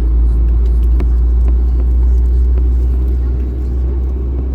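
Steady low rumble inside the cabin of an Airbus A321neo moving on the ground after pushback, with a few faint clicks.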